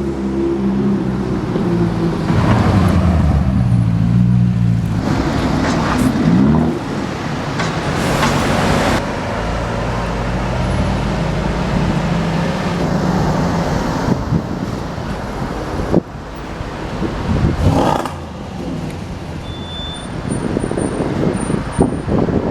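High-performance car engine revving and accelerating in street traffic, its pitch rising and falling repeatedly, with abrupt changes in the sound partway through.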